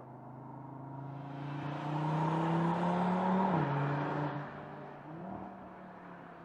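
2022 Audi RS3's turbocharged 2.5-litre inline five-cylinder accelerating, its pitch rising and then dropping sharply at an upshift about three and a half seconds in. After the shift it runs lower and quieter.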